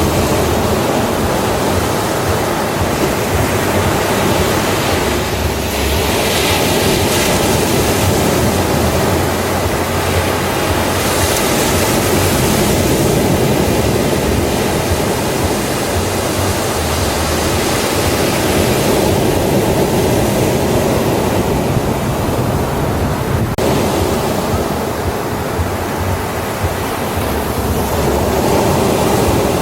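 Ocean waves breaking on a beach in a steady wash of surf, swelling and easing as successive waves come in.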